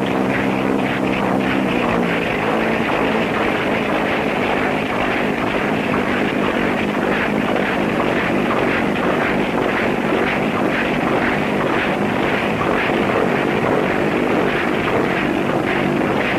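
Engine-driven experimental direct-lift flying machine running, its engine and reciprocating flat-plate propeller making a loud, steady rushing noise. A low drone is heard in the first two seconds, then fades.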